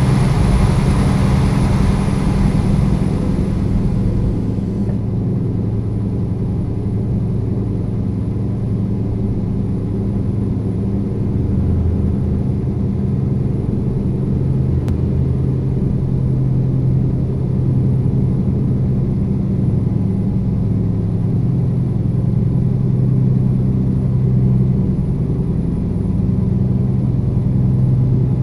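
Diesel engine of a Scania G-series truck running steadily under a heavy low-loader load, a low, even drone that wavers only slightly in pitch. A higher hiss in the sound dies away about five seconds in.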